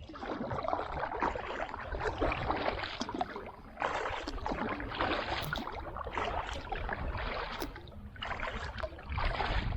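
Kayak paddle strokes: the blades dipping and pulling through river water with splashing and dripping, swelling and easing about every two seconds.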